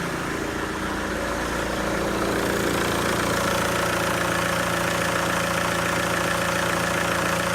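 Ford Galaxy's 1.9 TDI AHU four-cylinder turbodiesel engine idling steadily, growing a little louder about two seconds in.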